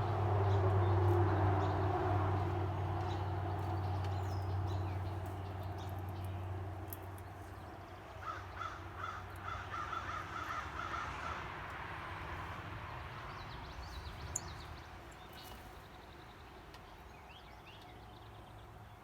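A low sustained sound fades away over the first several seconds. Then a bird gives a quick run of repeated calls, about three seconds long, starting some eight seconds in, with a few thin high chirps scattered around it.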